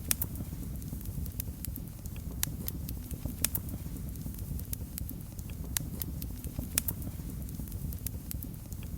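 Wood fire burning in a fireplace, with sharp irregular crackles and pops over a steady low rumble of the flames.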